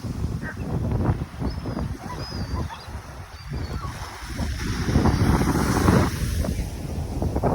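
Ocean surf breaking on a beach, with wind buffeting the microphone; the surf rises louder about halfway through.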